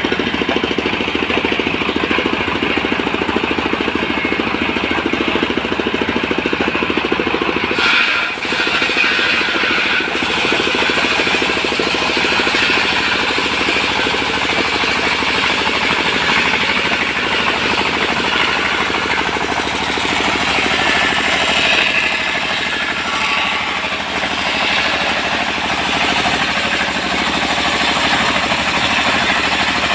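Engine-driven portable sawmill running steadily, with a brief dip and change in its sound about eight seconds in.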